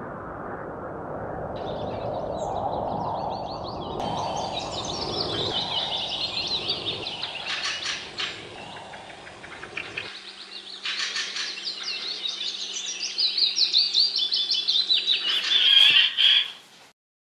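Small birds chirping and singing in quick, repeated trills, growing denser and loudest in the last few seconds, over a low outdoor rumble that stops abruptly about ten seconds in; the whole sound cuts off suddenly just before the end.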